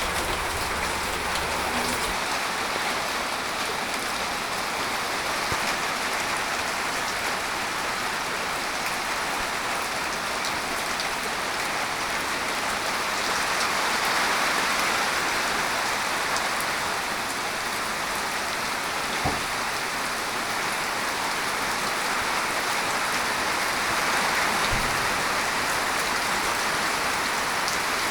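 Steady rain falling and pattering on surfaces, an even hiss throughout, with one brief click and a low thump along the way.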